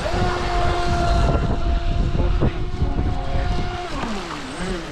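Pro Boat Recoil 2 RC speedboat's brushless electric motor and propeller running at speed, a steady high whine that sags and wavers in pitch near the end as the throttle comes off. Wind buffets the microphone throughout.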